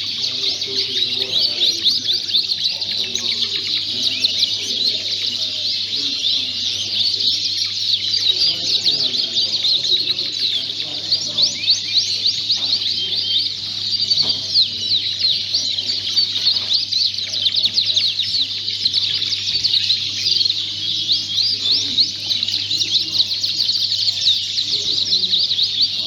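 Many Fife canaries singing and chirping at once, a dense, unbroken high twittering of overlapping trills, with a faint low murmur underneath.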